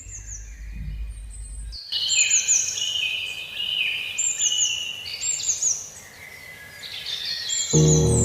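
Birds chirping: repeated bursts of quick, high, descending chirps about every second and a half, over a low hum that stops a couple of seconds in. Music comes in near the end.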